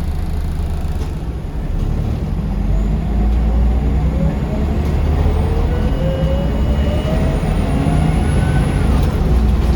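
Scania L94UB city bus heard from on board, the engine and driveline running with a heavy low rumble as the bus accelerates, a faint whine rising steadily in pitch.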